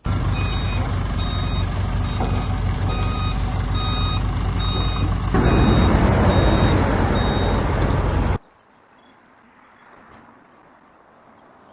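Self-loading concrete mixer's engine running with its reversing alarm beeping at an even pace. About five seconds in, a louder rushing noise joins the engine. Both cut off suddenly after about eight seconds, leaving only a faint background.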